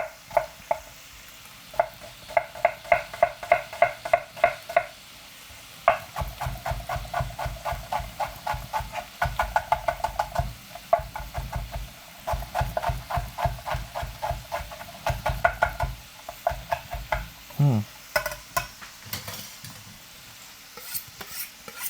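Knife dicing onions on a cutting board: runs of rapid, even chopping strokes, about five a second, broken by short pauses.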